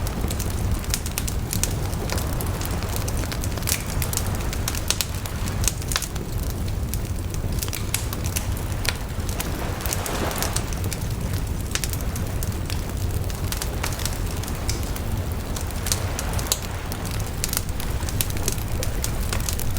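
Wood bonfire burning, crackling and popping with many irregular sharp snaps over a steady low rumble of flame. A brief louder hiss comes about halfway through.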